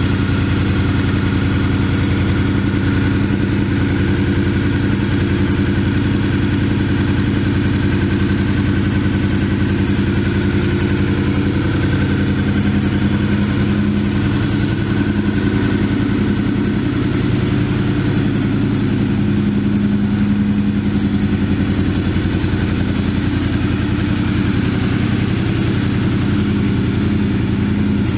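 1997 Honda VFR750F Interceptor's V4 engine idling steadily.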